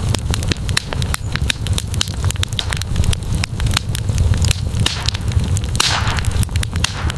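Campfire crackling, with frequent sharp pops over a steady low rumble of the burning fire, and a brief hiss near the end.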